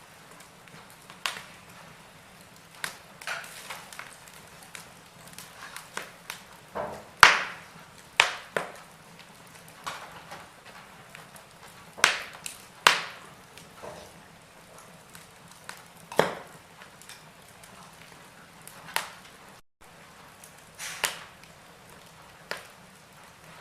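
Wood fire in a fireplace crackling: irregular sharp pops and snaps over a faint hiss, a few of them loud.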